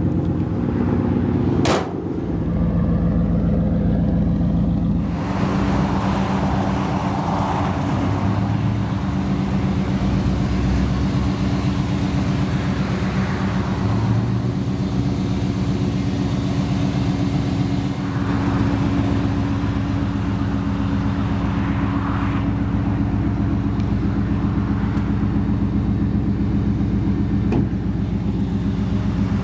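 A 5.7-litre V8 pickup engine idling steadily, with a single sharp click about two seconds in.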